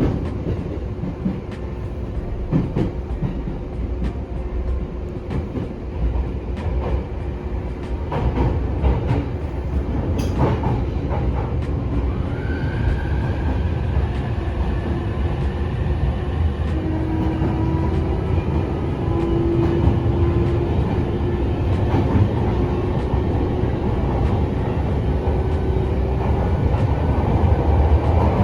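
Electric commuter train heard from inside the carriage while running: a steady low rumble of wheels on the rails with scattered clicks from the rail joints. About halfway through, a faint whine from the traction motors comes in and holds for several seconds.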